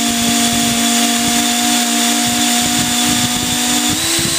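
Three electric ducted fans on a model Lockheed L-1011 TriStar airliner running together at about quarter throttle: a loud, steady whine made of several held tones. The pitch steps up slightly about four seconds in as the throttle is nudged.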